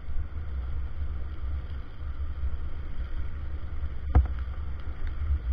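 Motorcycle on the move: a steady low rumble of the engine and wind buffeting the microphone, with a single sharp knock about four seconds in.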